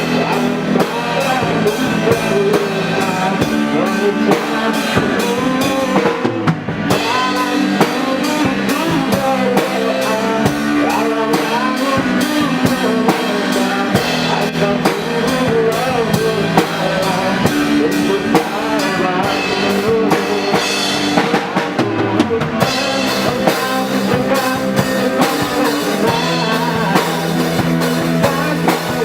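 A band plays a pop song on drum kit and guitar, with steady drum beats throughout; the cymbals drop out briefly twice.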